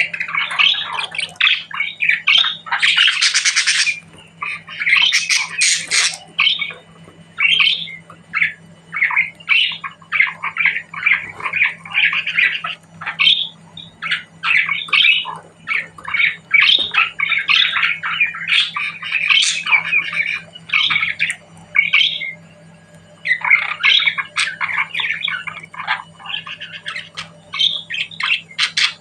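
Budgerigars chattering: a nearly continuous run of rapid chirps, warbles and squawks, with a couple of brief pauses.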